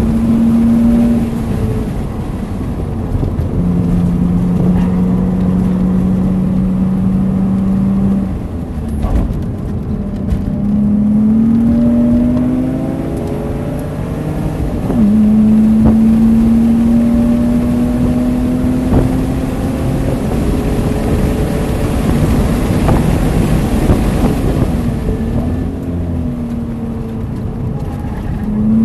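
BMW Z3's engine heard from onboard the car at track pace. Its pitch holds steady, then climbs under acceleration and drops back several times as the car speeds up and slows for corners.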